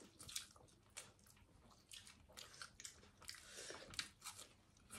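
Faint chewing of food, a person eating with soft, irregular crunches and mouth clicks.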